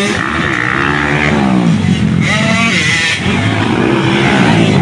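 Motocross dirt bike engines revving hard, their pitch climbing and falling several times as the riders accelerate and shift.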